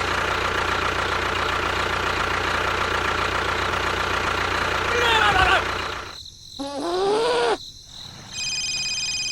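A motor runs steadily for about six seconds, then cuts off suddenly. A short voice-like sound follows, and near the end there is a steady electronic beep made of several tones.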